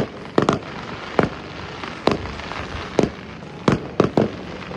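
Fireworks bursting: a run of sharp bangs, about nine in under five seconds at uneven intervals, some coming in quick pairs.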